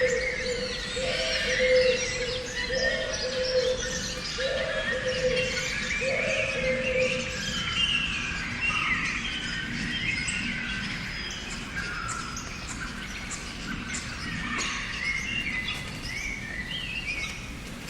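A chorus of small birds chirping and singing. During the first seven seconds a lower, held call repeats about every second and a half beneath the chirps.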